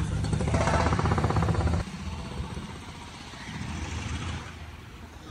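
A car engine running close by: a low rumble that drops away suddenly about two seconds in. After it comes fainter road noise that swells briefly a little past the middle.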